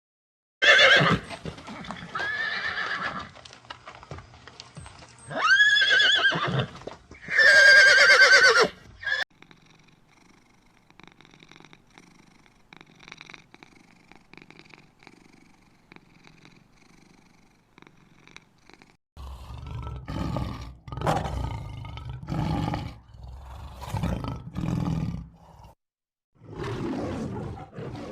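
A series of animal calls: loud, pitched calls over the first nine seconds or so, a quiet stretch of faint high sounds, then a run of low, heavy calls starting around the two-thirds mark.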